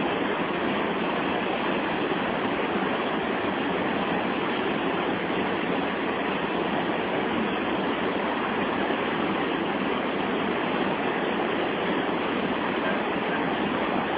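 Steady, even rush of water from the Santo Antônio waterfall rapids on the Madeira River.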